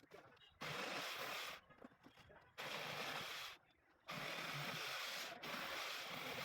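Power tool working into a wall in three bursts of harsh noise, each about a second long, the last running on longer.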